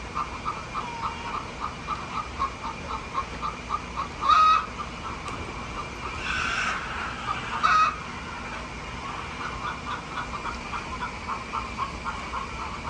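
Chickens calling, with two louder, sharper calls about four and eight seconds in and a short rustling burst between them, over a rapid, even chirping of about four pulses a second in the background.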